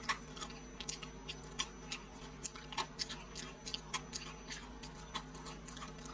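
Crisp, crunchy chewing of deep-fried silkworm pupae, with irregular crackles several times a second as they are bitten and chewed.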